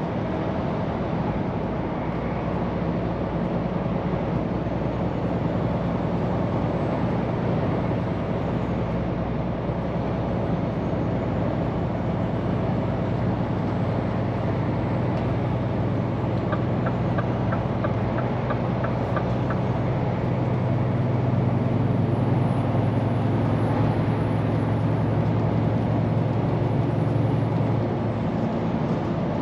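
Scania P410 truck's diesel engine running under way with road noise, heard from the cab. About two-thirds of the way in the engine note rises and grows louder for several seconds before easing off near the end. A short run of quick ticks comes a little past the middle.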